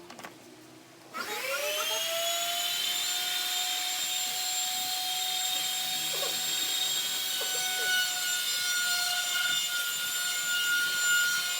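A small high-speed electric power tool switching on about a second in, its whine rising quickly in pitch and then holding steady.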